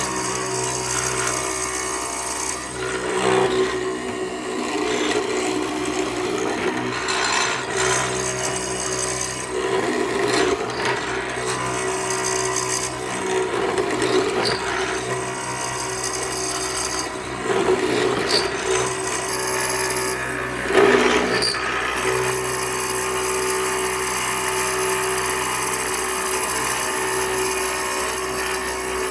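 A power tool running steadily on wood: a constant motor hum with a louder rasping surge every three or four seconds, the strongest about three-quarters of the way through.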